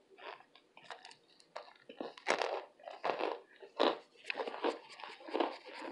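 Close-up chewing and crunching of a burnt baked cornstarch brick: irregular, crumbly crunches that grow louder about two seconds in.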